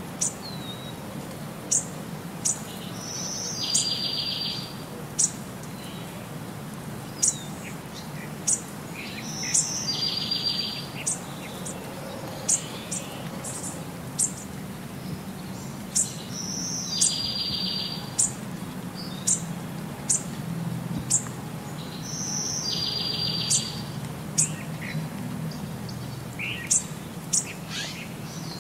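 Birdsong: short high chirps every second or two, and a buzzy trill that comes back about every six and a half seconds, over a steady low hum.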